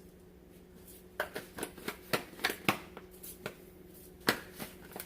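Plastic spice shaker of garlic powder being shaken over the pot: a run of about ten short, sharp taps and rattles, irregularly spaced.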